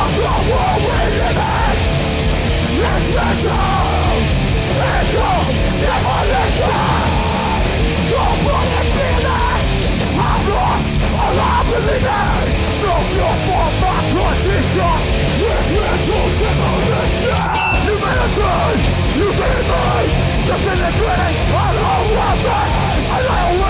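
Hardcore punk band playing live at full volume: distorted guitars, bass and drums, with shouted vocals over them.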